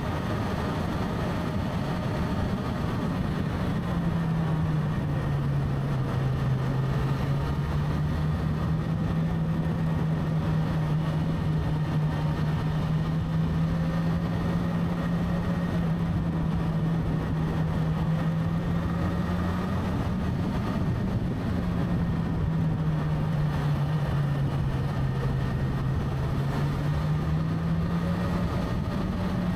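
Motorcycle engine running steadily while riding, under a continuous rush of wind and road noise. The engine note drops a little about four seconds in, wavers briefly past the middle, and rises again near the end as the speed changes.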